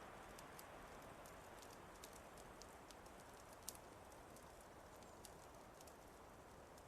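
Faint wood fire crackling: irregular sharp pops and snaps, a few each second, over a soft steady hiss, with one stronger pop about three and a half seconds in.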